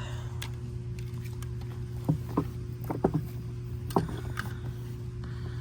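A few light clicks and knocks of a cable being handled and fed through a power recliner's frame, mostly between about two and four seconds in, over a steady low hum.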